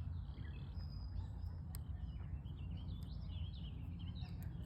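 Several wild birds chirping and calling in quick, overlapping short notes, over a steady low rumble of background noise.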